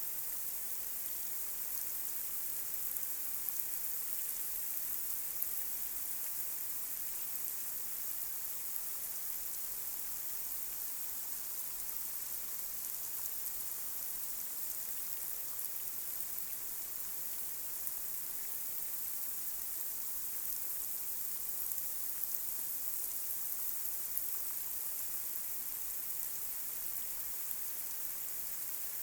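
Light rain falling on a street: a steady high hiss with occasional louder drop ticks.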